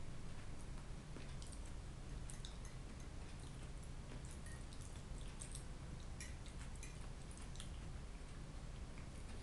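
Close-up chewing of fried potatoes with small wet mouth clicks, and a fork now and then tapping and scraping on a ceramic plate, over a steady low hum.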